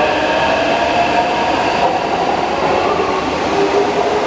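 Taipei Metro C381 electric train, its inverter software modified, pulling away and accelerating. The traction motors and inverter give several whining tones that shift in pitch, with a lower tone rising near the end, over steady wheel and running noise.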